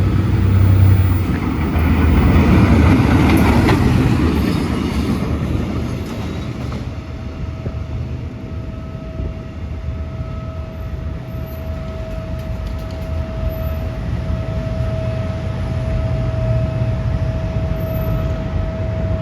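A diesel locomotive and its train running past over a level crossing, loudest about two to five seconds in, then rumbling on more quietly. From about seven seconds in a steady tone sounds over the rumble.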